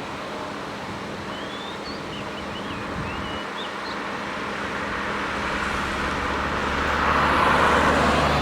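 Jet airliner engines, a roar that builds steadily louder as the aircraft approaches, with a deep rumble coming in about halfway and the loudest part near the end. Small birds chirp faintly in the first half.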